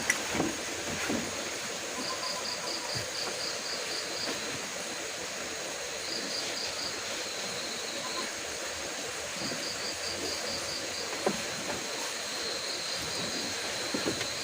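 Insects chirping in short rapid trains of pulses, repeating every few seconds over a steady hiss of rain, with a few sharp crackles.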